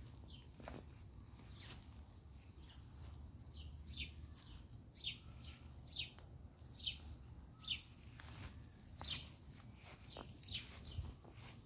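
A bird calling repeatedly in short, falling chirps, about one a second, over a faint low rumble.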